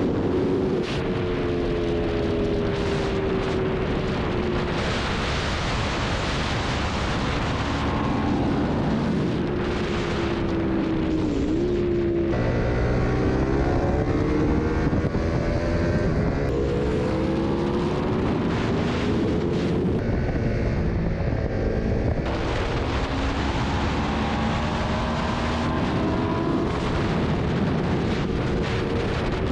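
Superbike engine revving hard, its pitch climbing and dropping again and again as the rider accelerates and changes gear, over rushing wind noise.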